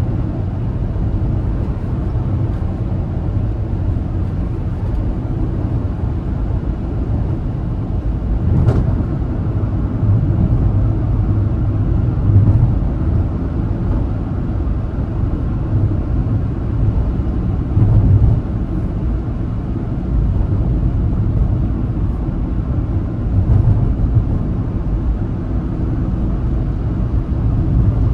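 Car driving at highway speed: a steady low rumble of engine and tyre noise that swells slightly now and then, with one brief sharp tick about nine seconds in.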